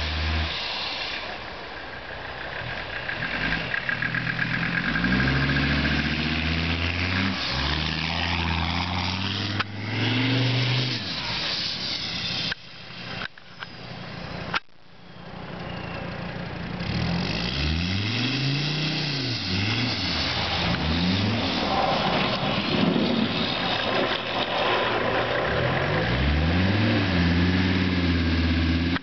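Mercedes OM617 five-cylinder turbo diesel revving up and falling back again and again, its pitch rising and dropping. The sound cuts out briefly a couple of times near the middle, with a sharp click.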